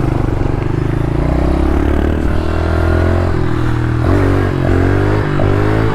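Small pit bike engine running while being ridden on the road, holding a steady pitch at first and then rising and falling in pitch in short steps from about four seconds in as the throttle is worked.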